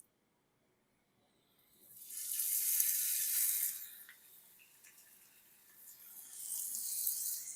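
Chicken breasts sizzling in hot olive oil in a cast iron skillet. A loud hiss rises about two seconds in and eases off, and a second surge builds near the end as another piece goes into the pan.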